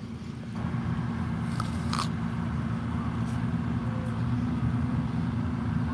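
Crunching and chewing as a caramel apple is bitten and eaten, with a few short sharp crunches, over a steady low motor hum.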